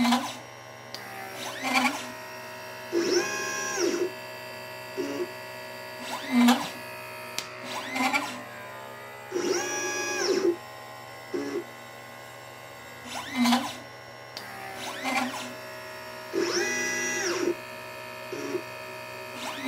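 LitePlacer pick-and-place machine's stepper motors driving the head through repeated pick-and-place cycles. Each long move is a whine that rises in pitch, holds for about a second and falls, three times in all. Shorter whirs and clicks come between the long moves, over a steady hum.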